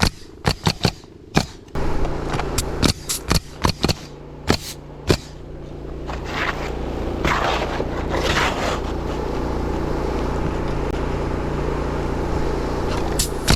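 Shingles being nailed down: a series of sharp single nail shots, a few a second, through the first five seconds and again near the end. A steady low machine hum starts about two seconds in and carries on underneath, with a brief scraping sound in the middle.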